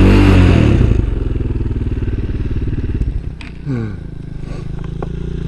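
Motorcycle engine revved briefly at the start, then idling steadily, with a short falling rev about three and a half seconds in.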